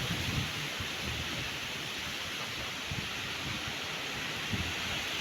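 Strong wind gusting through trees, a steady rushing hiss with irregular low rumbles of wind buffeting the microphone.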